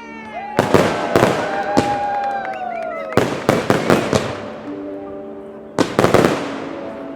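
Aerial fireworks shells bursting in three quick volleys of sharp bangs, one volley about half a second in, one about three seconds in and one near the end, each fading out in a long rolling echo.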